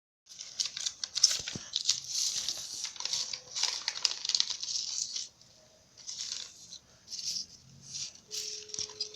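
Paper being handled and folded, rustling and crinkling in irregular bursts with a few sharp clicks.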